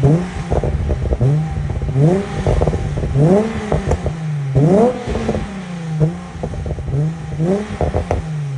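Volkswagen Corrado VR6 engine revved in quick throttle blips, six or seven times, each rising in pitch and falling back to idle. Popping and crackling burble from the exhaust as the revs drop, through S2 headers and a high-flow catalytic converter on the stock exhaust.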